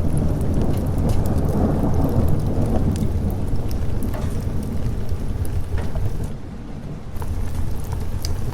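Thunder rumbling low over steady rain, swelling through the first few seconds and then fading. Scattered small ticks run through it, and the sound briefly thins and drops in level about six seconds in.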